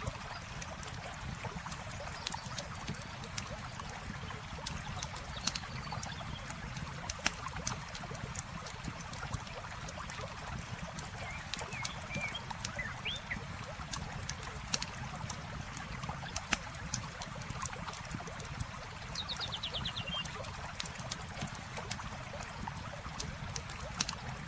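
Campfire crackling with frequent sharp pops over the steady flow of a river or stream. A few short chirps come about halfway through, and a quick trill a few seconds before the end.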